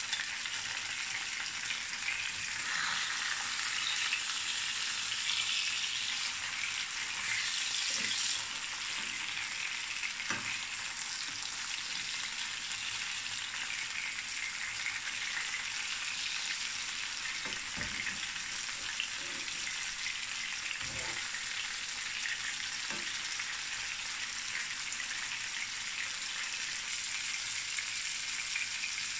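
Tomato slices sizzling in hot olive oil in a frying pan: a steady crackle, a little louder for the first eight seconds or so. A few soft knocks of a spatula and fork against the pan as the slices are handled.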